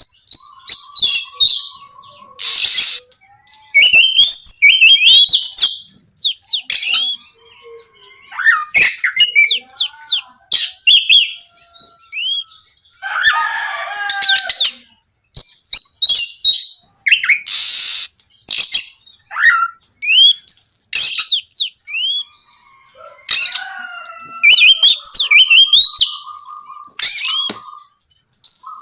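Oriental magpie-robin (kacer) singing in full, fast varied song: loud whistled phrases full of quick rising sweeps, with a few harsh rasping notes and a low held whistle mixed in.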